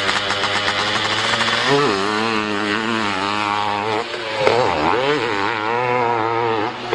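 Hill-climb motorcycle engine running hard at high revs, its pitch wavering up and down as the throttle is worked, dropping briefly about four seconds in.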